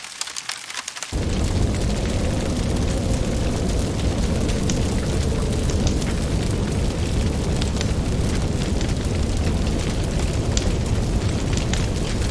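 Wood fire crackling with sharp pops. About a second in, a loud, steady low rumble of the burning fire comes in suddenly and continues under the crackles.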